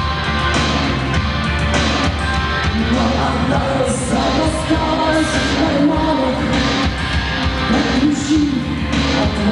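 Rock band playing live, guitars and drums over a steady beat, in a stretch without sung lyrics.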